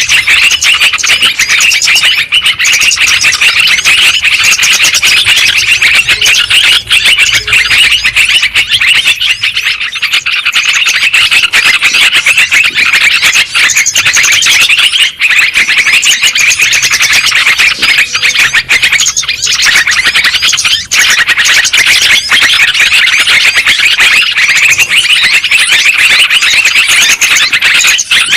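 Yellow-vented bulbul (trucukan) song played as a lure recording: loud, fast, unbroken chattering phrases with hardly a pause.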